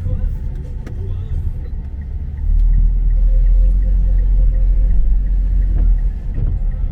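A strong low rumble that grows louder about two and a half seconds in.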